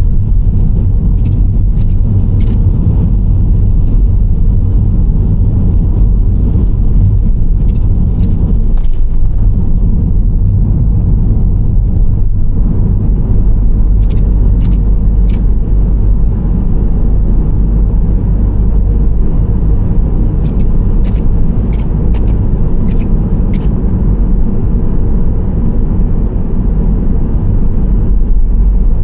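Steady low road rumble of a Nissan Serena C25 minivan driving at a constant speed: tyre and engine noise, with a few faint ticks in small clusters now and then.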